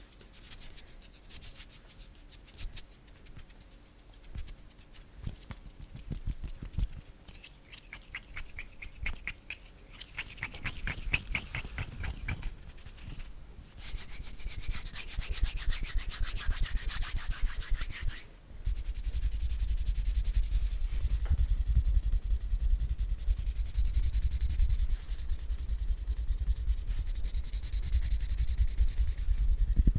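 Bare hands rubbing and brushing against each other close to the microphone in quick continuous strokes. The rubbing breaks off briefly twice, then comes back louder about eighteen seconds in.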